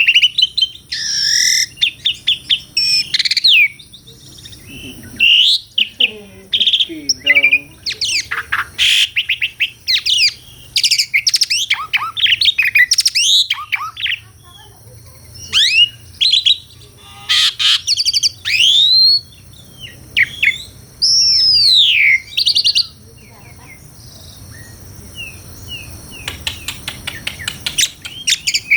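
Asian pied starling (jalak suren) singing a long, varied song of loud whistles, sweeping slurred notes and quick chattering trills. It has a quieter stretch near the end, then a fast run of short repeated notes.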